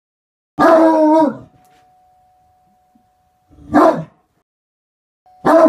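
Great Dane barking three times: a first long, drawn-out bark, then two short barks about two seconds apart, with a faint steady hum between them.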